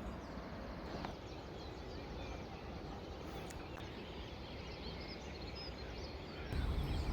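Faint outdoor ambience: a steady background hiss with scattered faint bird chirps. The background gets louder about six and a half seconds in.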